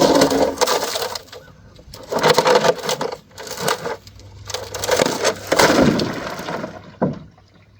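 Frozen-solid ice in the ducks' water container being broken out, cracking and crunching in three bouts, with a sharp knock near the end; the container cracks in the process.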